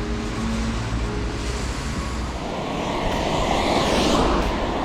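Wind rushing over the microphone while cycling along a road, growing louder about halfway through.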